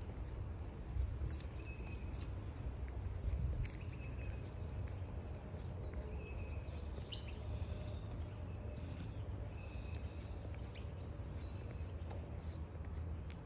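Wild birds giving short, scattered chirps and calls, a few each few seconds, over a steady low rumble.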